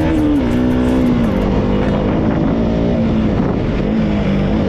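Motorcycle engine running under way, with wind noise on the mic; its note drops shortly after the start and then holds steady at a lower pitch.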